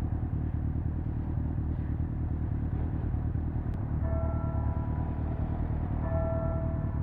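Honda CBR600F's inline-four engine running steadily at low revs. Two short, steady high tones sound over it, about four and six seconds in.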